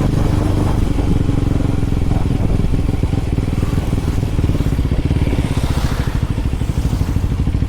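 KTM Duke 390 Gen 3's single-cylinder engine through an Arrow aftermarket exhaust, running steadily, then about halfway through dropping to a slower, throbbing beat.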